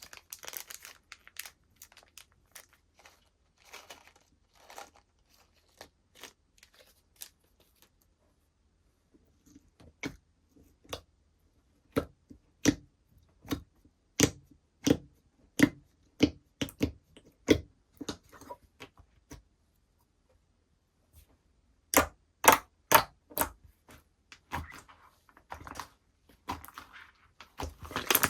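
Slime being handled and squeezed, giving a string of sharp popping clicks at irregular intervals, with crackling stretches near the start and near the end.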